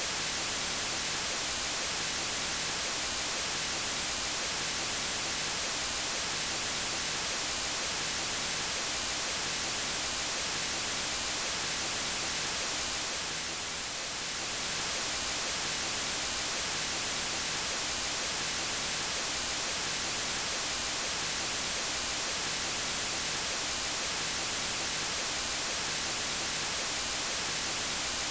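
Steady white noise: an even, full-range hiss, brightest in the highs, with a brief dip in level about halfway through.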